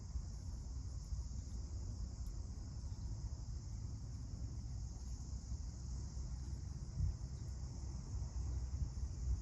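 A steady, high insect chorus drones without a break, over a low rumble of wind on the microphone.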